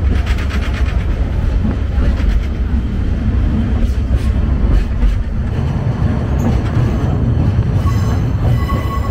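Sagano Romantic Train running on its track: a steady heavy low rumble with scattered clicks from the wheels. Near the end, a high-pitched wheel squeal sets in.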